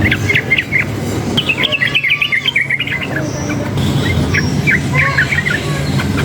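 Sooty-headed bulbul (trucukan) singing in three bursts of quick chirps over a steady low hum.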